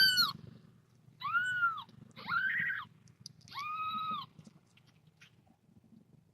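A very young kitten, eyes not yet open, mewing three times, each a short high-pitched cry that rises and falls in pitch.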